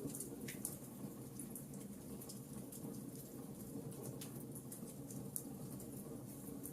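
Wood fire burning, the logs crackling with frequent small sharp pops and a couple of louder ones, over a low steady rumble of the flames.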